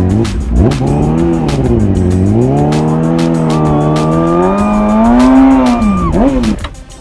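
Motorcycle engine revving and pulling away, its pitch climbing and dropping several times as it accelerates through the gears, then stopping near the end.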